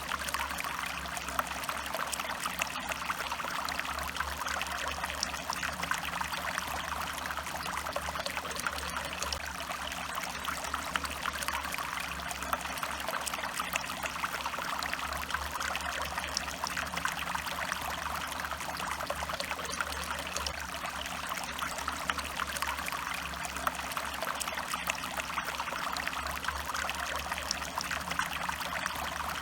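A stream of water running and trickling over stones, a steady babble with fine splashing.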